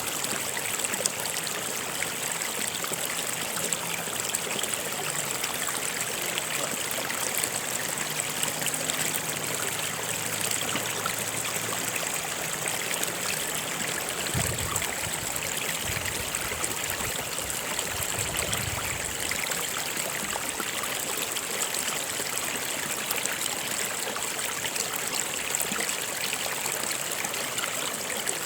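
A stream running and trickling over rocks, a steady rush of water with a high hiss over it. A few low rumbles come and go about halfway through.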